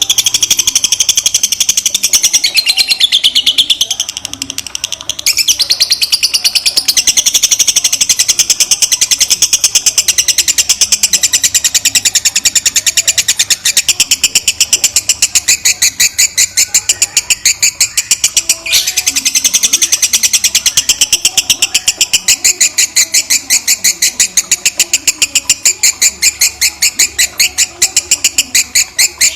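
Lovebird 'ngekek': a long run of rapid, shrill chattering notes repeated many times a second, with a short break about four seconds in and another about two-thirds through before it starts again.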